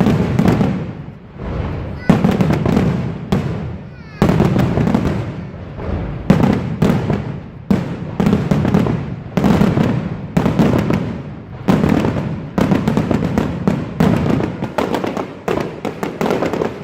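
Fireworks display: aerial shells bursting one after another in quick succession, about one to two bangs a second, each boom trailing off in a rumbling echo.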